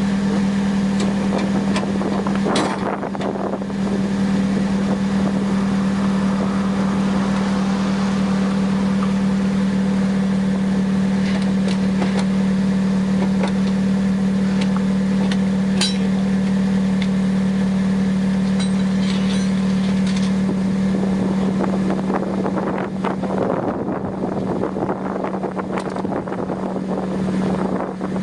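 Suzuki Swift Sport ZC31S 1.6-litre four-cylinder exhaust through a Rosso Modello Ti-C aftermarket muffler, running at a steady engine speed with one constant drone note. In the last several seconds the sound turns rougher and less even.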